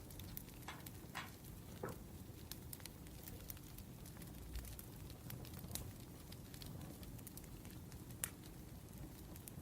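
Wood fire burning, a steady low rumble with irregular sharp crackles and pops; the sharpest pop comes about eight seconds in.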